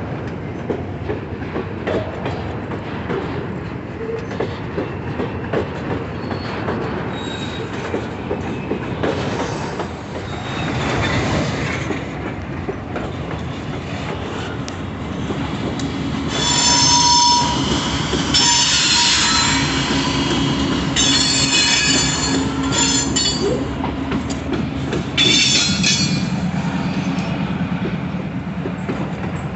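Train rolling slowly through a rail yard, wheels rumbling and clacking over the rails, with high-pitched wheel squeal coming in several bouts during the second half.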